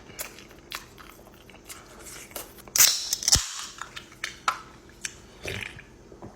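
Close-miked eating: a loud crunchy bite about three seconds in, with sharp crackles and chewing around it.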